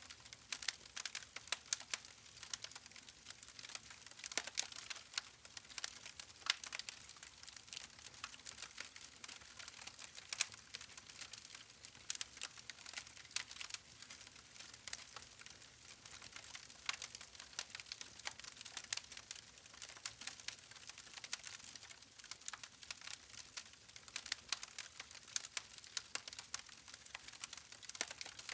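Wood campfire crackling: irregular sharp pops and snaps, several a second and now and then a louder one, over a faint hiss from the burning logs.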